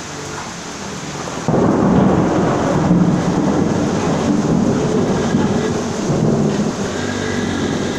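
Steady rain falling; about one and a half seconds in, a loud rumble of thunder breaks in and rolls on through the rest.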